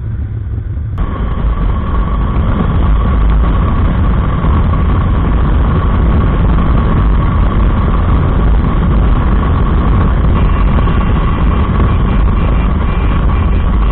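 Motorcycle riding at road speed: a steady, loud rush of wind and engine noise that comes in about a second in, with a faint steady whine over it.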